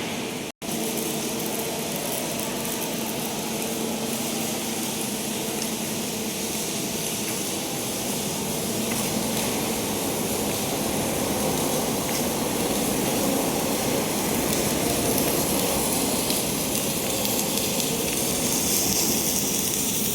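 Steady machine noise: a continuous hiss over a low hum, cut off briefly about half a second in, then running on and growing slightly louder.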